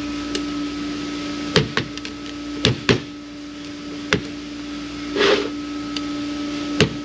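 Sharp metal clicks and clinks, about six at uneven spacing, from tools and parts being worked at a Ford AOD transmission's clutch drum and snap ring, with a short scrape about five seconds in. A steady hum runs underneath.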